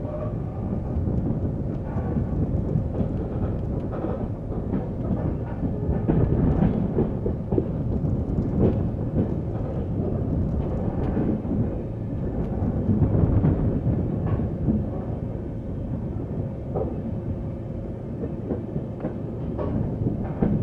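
Passenger train running on the rails: a steady rumble of the coaches' wheels with irregular clacks as they cross rail joints, and a faint steady tone throughout.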